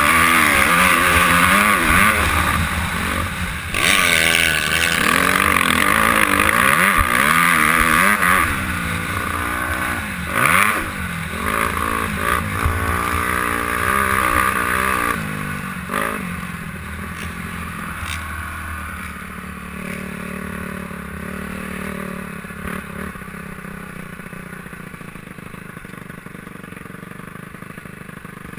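Honda CRF250R's single-cylinder four-stroke motocross engine, heard from the rider's helmet, revving up and down hard under race riding. About halfway through, the revs fall away and it runs quieter and steadier at low revs.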